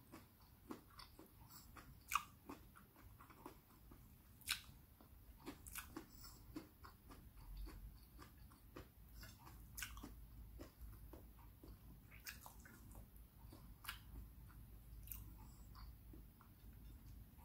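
Faint close-up chewing of a mouthful of steamed okra and rice, with small wet mouth clicks and smacks scattered throughout, the sharpest about two seconds in.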